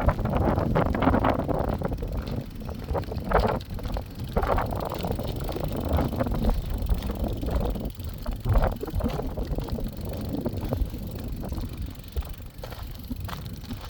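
Wind buffeting the phone's microphone: a low rumble that eases after the first couple of seconds, with scattered short knocks and rustles on top.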